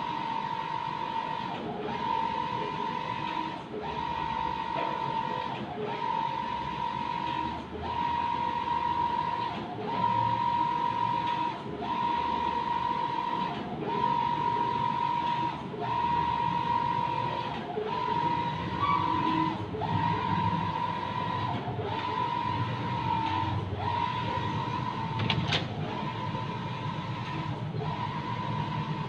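Mimaki JV33-160 BS wide-format inkjet printer running a print: the print-head carriage sweeps back and forth with a steady whine, breaking briefly about every two seconds as each pass ends.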